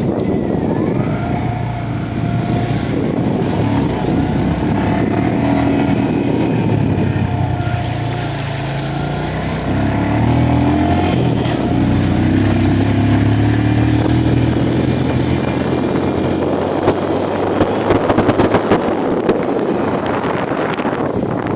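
Motorcycle engine running under way, its pitch rising and falling with the throttle, with a short run of knocks and rattles near the end.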